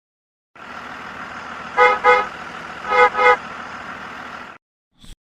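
Bus engine running steadily while its horn sounds two quick double beeps, beep-beep, then beep-beep about a second later. A short click follows near the end.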